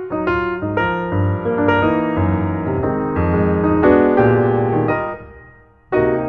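Piano music: a series of struck notes and chords, with a chord dying away about five seconds in before new notes begin.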